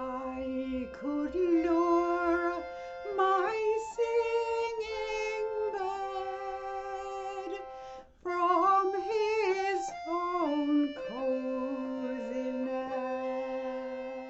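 Acoustic folk music: a wavering melody line over held accompanying chords, with a brief break just after the middle.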